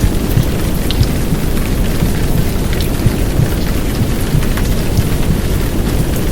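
Heavy downpour rain falling steadily, layered over the deep low rumble of a recorded womb sound with white noise, with scattered drip ticks.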